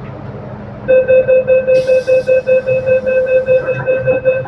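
MTR train door-closing warning: a rapid beeping tone, about four beeps a second, starting about a second in, with a brief hiss partway through.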